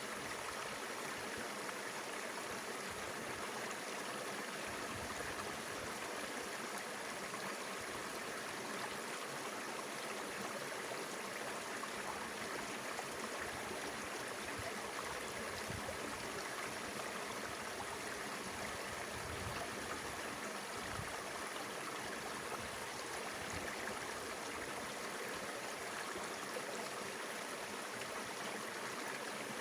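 Mountain river water flowing over rocks, a steady, even rush of running water.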